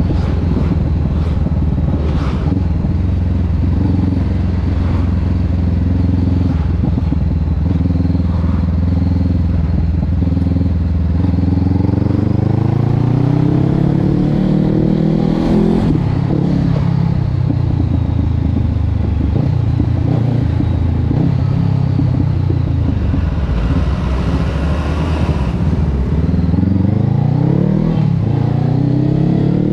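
Honda CB500X's parallel-twin engine through a Termignoni aftermarket exhaust, running at a steady pitch for about ten seconds, then revs climbing for several seconds, dropping back, and climbing again near the end.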